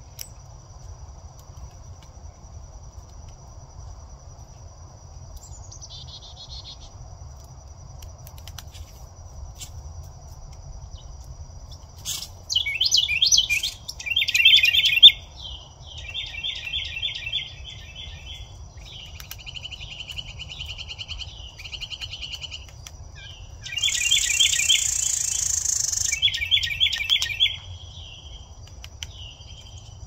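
Bird chirping in quick runs of rapid repeated notes, starting about twelve seconds in and going on in bursts to near the end, over a steady high insect trill. A high hissing buzz lasts about two seconds near the three-quarter mark.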